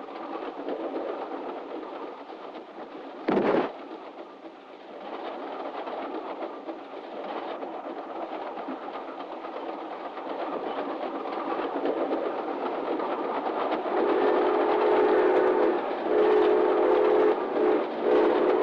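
Running noise of a moving train, with a single loud knock about three seconds in. Near the end the train whistle sounds three long blasts on one pitch.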